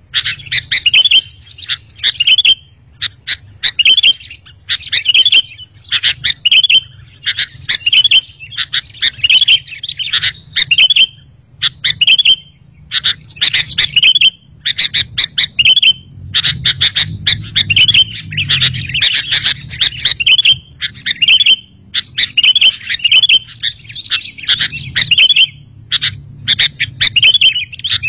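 Sooty-headed bulbul calling loudly, a rapid run of short, bubbly call phrases one after another, used as a lure recording to draw other bulbuls into answering.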